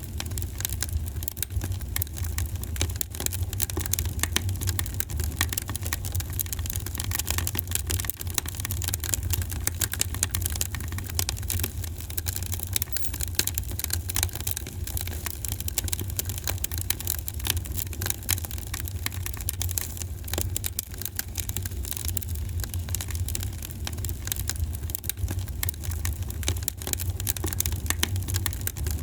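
Wood fire in a fireplace crackling with many quick, irregular pops, over a steady low rumble.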